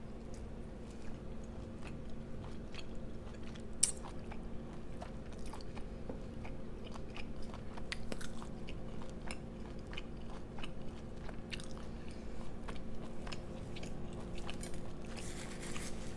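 Close-miked chewing and wet mouth clicks of someone eating chewy blood clams dipped in sauce, with one louder click about four seconds in. A fridge hums steadily underneath.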